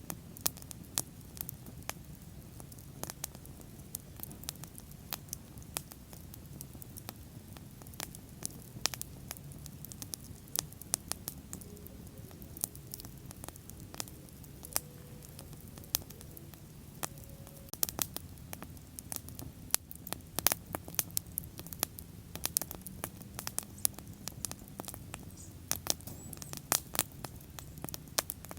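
Wood bonfire burning, with irregular sharp crackles and pops over a low, steady rumble of flame. The pops come thicker and louder in the second half, most of all about twenty seconds in.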